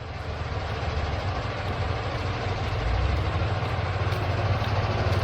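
An engine running steadily, gradually getting louder.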